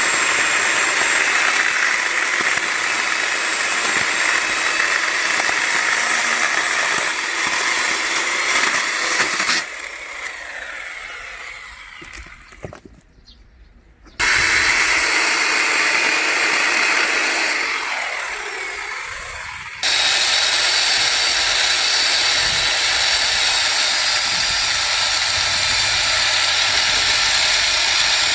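Angle grinder converted into an electric chainsaw with a chainsaw kit, running at full speed while sawing firewood. It is shut off twice, its whine falling away as it winds down, and started again each time, about 14 and 20 seconds in.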